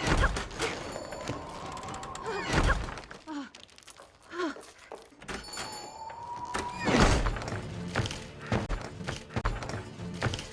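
Film soundtrack: music with heavy thuds, one at the start, one about two and a half seconds in and the loudest about seven seconds in.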